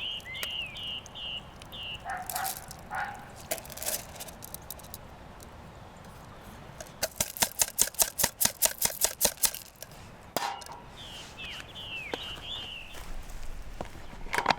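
A small bird calling with short, repeated chirps, which stop and then start again later. In between, a fast run of sharp taps or clicks, about seven a second, lasts roughly three seconds and is the loudest sound.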